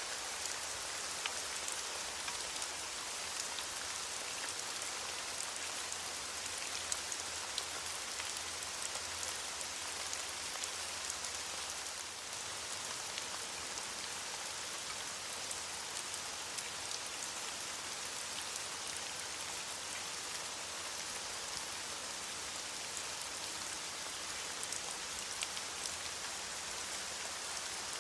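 Steady rain falling on leaves, an even hiss dotted with many small drop ticks.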